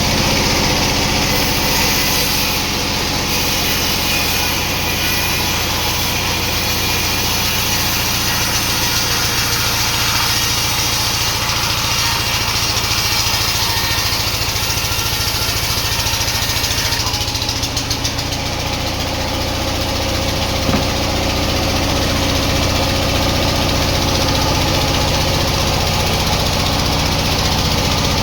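Sawmill machinery running steadily with a constant engine drone, its higher noise changing about two-thirds of the way through.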